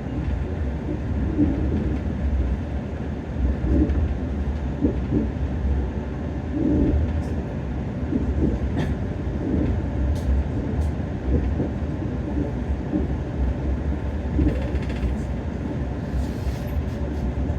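Passenger train running along the rails, heard from aboard a coach: a steady low rumble with a few sharp clicks partway through.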